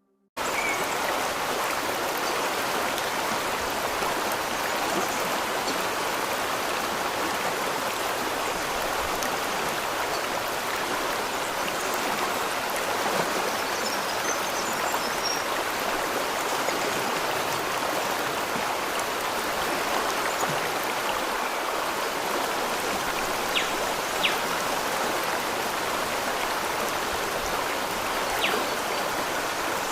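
Steady rush of flowing water, starting abruptly just after the start, with a few faint ticks in the second half.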